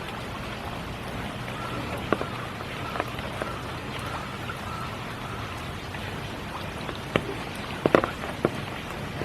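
Steady spring rain falling, with single large drops ticking close by now and then, several in quick succession near the end.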